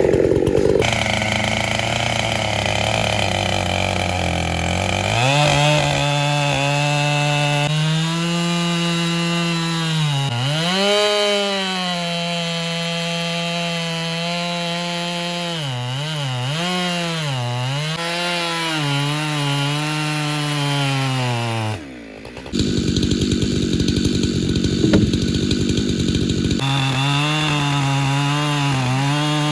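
Husqvarna 592XP two-stroke chainsaw running at high revs, its pitch sagging and recovering several times as it loads in a cut through a log. It runs lower for the first few seconds before revving up, and the sound drops out briefly about three-quarters of the way through, then the saw is running again.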